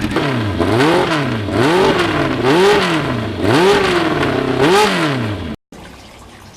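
1991 Yamaha FZR's inline-four engine revved through its Norton-style muffler, engine speed rising and falling about five times in quick blips. The sound cuts off abruptly about five and a half seconds in.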